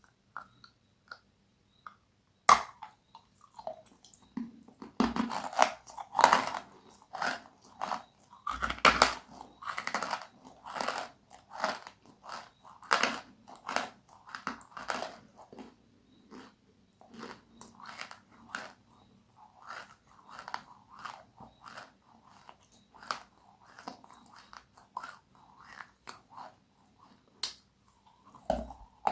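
Close-miked chewing of crunchy, crispy food: a sharp loud bite, then steady rapid crunching that softens as the mouthful is ground down, with another crisp bite near the end.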